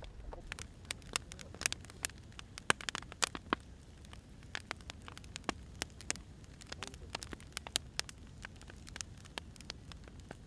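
Wood fire crackling and popping: irregular sharp snaps, a few louder pops, over a low steady rumble of burning logs.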